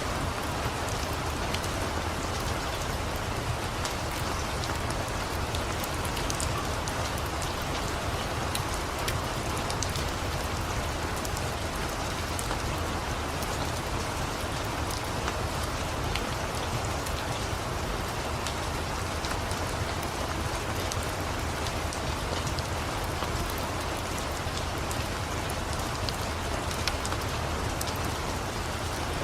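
Steady rain falling, with many small sharp crackles scattered through it, in a rain-and-crackling-fireplace ambience mix. A steady low rumble sits underneath.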